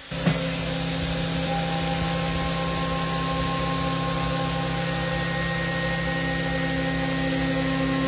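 Milltronics TRM3016 CNC toolroom mill, spindle at about 4,500 rpm, running steadily as it machines a part. It makes a steady mechanical whine of several held tones over a hiss, and comes in suddenly right at the start.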